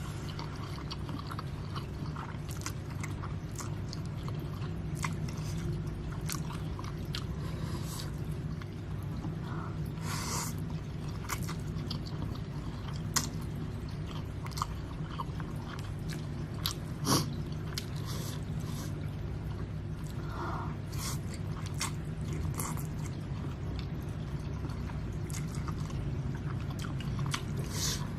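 A person chewing and eating spicy Samyang instant noodles close to the microphone, with scattered wet mouth clicks and smacks over a steady low hum. One sharper click stands out about two-thirds of the way through.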